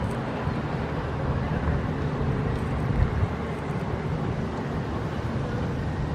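A steady low motor rumble under a wash of outdoor noise.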